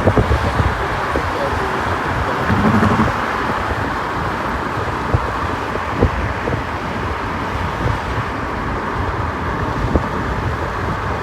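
Steady road and engine noise heard inside a moving car: a continuous rumble with a few short knocks.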